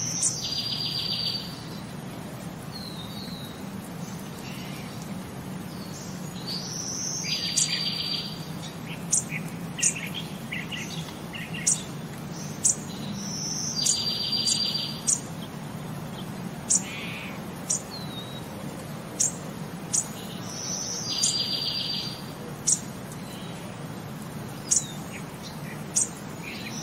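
Birds chirping in a repeating pattern: sharp high chirps and a short buzzy trill that comes back about every seven seconds, over a steady low hum.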